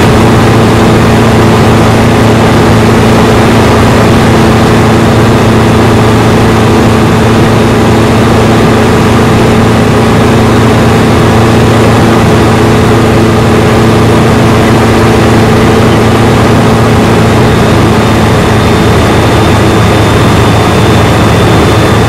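Comco Ikarus C42 microlight's engine and propeller running loud and steady at constant power, with no change in pitch.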